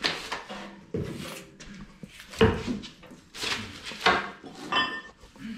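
Heavy belt-grinder parts being shifted and knocked about during assembly: a run of about six hard knocks with scraping between them, the last with a short metallic ring.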